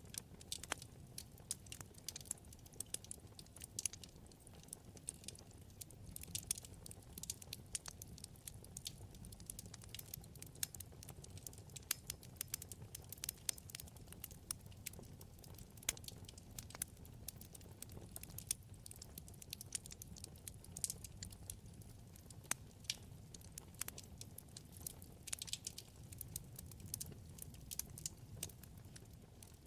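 Wood fire in a fireplace crackling: a dense run of small, sharp pops and snaps over a low, steady rumble of flame.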